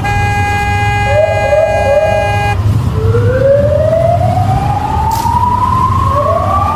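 A vehicle horn sounds one steady blast that cuts off about two and a half seconds in. An emergency siren then winds up, its wail rising slowly in pitch, with a second rise starting near the end. A steady low traffic rumble runs underneath.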